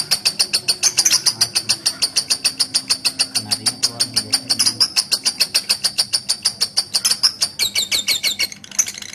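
Lovebird giving a long 'ngekek' chatter: a fast, even run of sharp, high-pitched chirps, about eight a second, that changes pattern and fades near the end. Its keeper puts such long chattering down to the bird being over-conditioned or in breeding excitement, or simply to its character.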